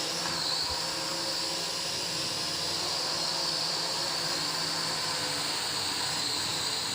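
Small foldable quadcopter drone's electric motors and propellers whirring in a steady high whine after a one-key take-off.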